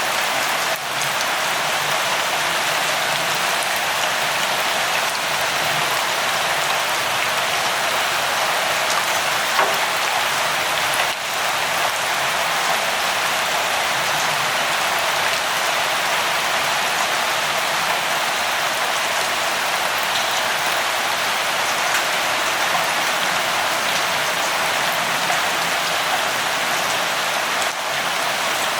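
Steady light rainfall, a dense even hiss of drops with faint scattered ticks. The level dips briefly three times.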